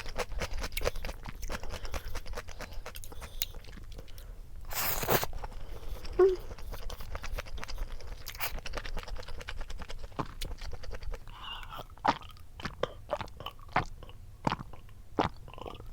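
Close-miked chewing, with many small wet mouth clicks, and a short burst of noise about five seconds in.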